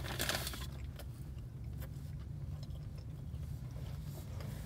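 A person chewing a mouthful of a charbroiled chicken sandwich, with soft, faint chewing noises. A crackly rustle, like wrapper paper, fills the first second.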